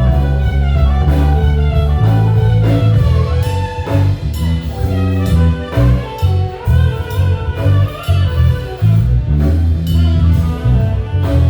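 Live band playing an instrumental jazz-blues groove: a prominent bass line under a drum kit keeping a steady beat, with keyboard and a lead melody on top.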